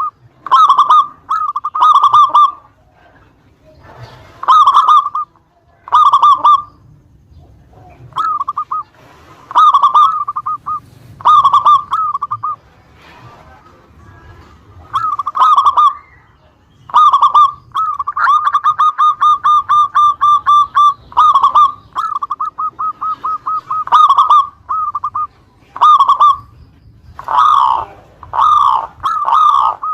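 Zebra dove (local perkutut) cooing: short ringing phrases repeated every second or two, with a long run of quick, even notes about two-thirds of the way through.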